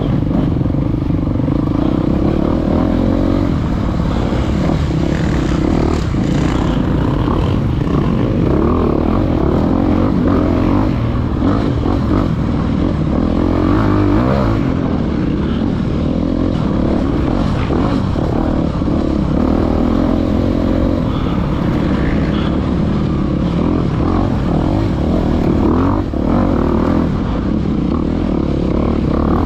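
Off-road motorcycle engine heard from on board, revving up and down continuously as the rider works the throttle and gears over a trail.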